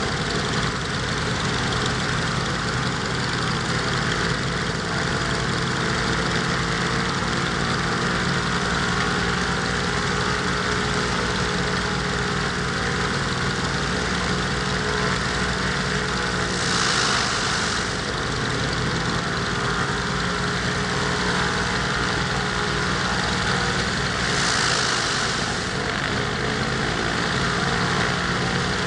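Alvis Leonides radial piston engine of a Scottish Aviation Twin Pioneer running steadily on the ground, with its propeller turning. A short rush of hiss comes twice: a little past halfway and again near three-quarters of the way through.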